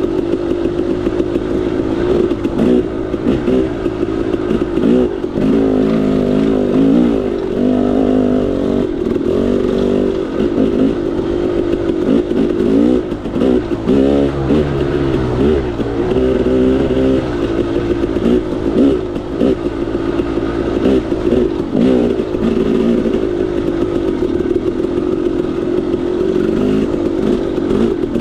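KTM 300 XC-W's single-cylinder two-stroke engine revving up and down as the dirt bike is ridden, its pitch rising and falling constantly, with occasional knocks.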